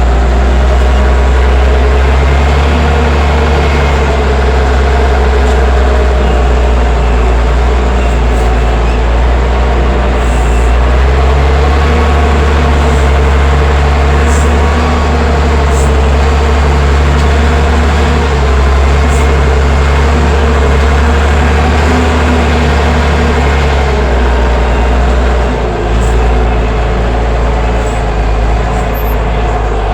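Allis-Chalmers 940 wheel loader's diesel engine running steadily and loud, with a few faint ticks over it. Its note drops a little near the end.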